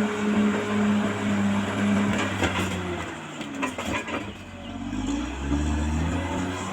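Caterpillar D6R XL bulldozer's diesel engine running steadily, then its pitch sags with a few clanks about three to four seconds in, before rising again and settling.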